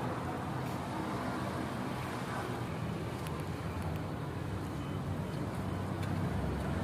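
Steady low rumble of motor-vehicle noise, even throughout.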